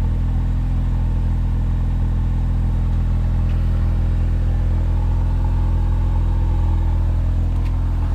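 Rolls-Royce Ghost's twin-turbo V12 idling steadily after a cold start, with no revving.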